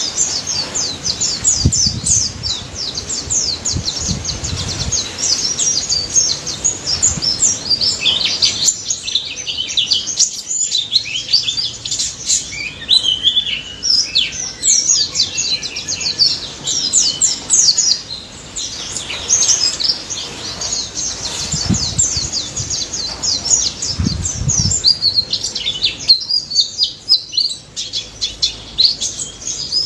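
White-eyes (pleci) singing a dense, unbroken stream of rapid, high chirps and trills.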